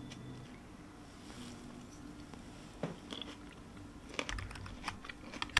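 Close-up eating sounds: quiet biting and chewing of a raw tomato slice, with a few light clicks of wooden chopsticks against a wooden lunchbox in the second half.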